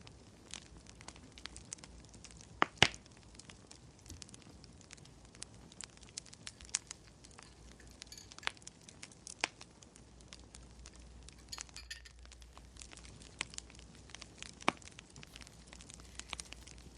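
Wood fire crackling, with irregular sharp pops and snaps over a faint steady hiss; the loudest is a double snap about three seconds in.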